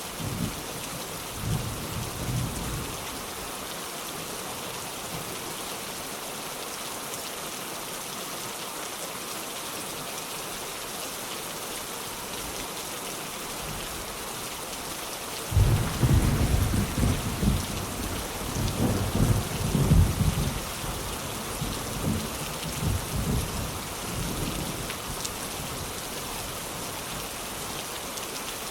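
Steady rain with rolling thunder: a short low rumble at the start, then a loud thunderclap about halfway through that rumbles on for several seconds and fades back into the rain.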